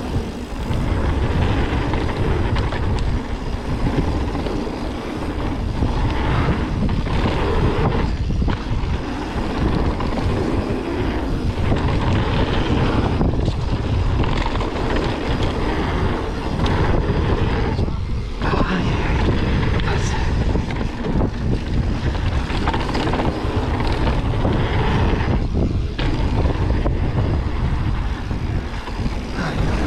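Mountain bike riding fast down a bike-park trail: continuous rushing and rumbling noise of wind on the microphone and tyres on the dirt, with a few brief dips.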